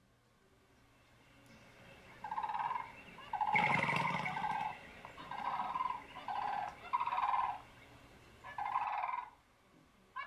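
A bird calling in a series of about six short calls, each roughly half a second long, starting about two seconds in; the second call, around four seconds in, is the loudest and has extra noise with it.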